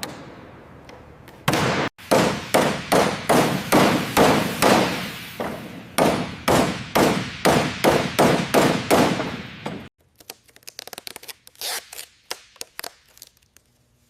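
Repeated hammer blows, about two and a half a second for some eight seconds, each with a short decaying ring, then fainter, irregular taps near the end.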